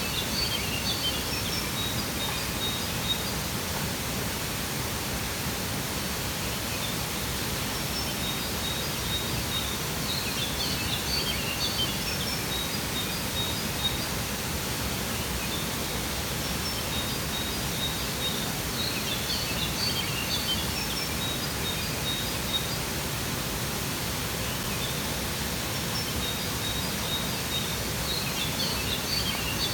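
Steady rush of a waterfall, with birds chirping and whistling in short bursts that come back about every nine seconds.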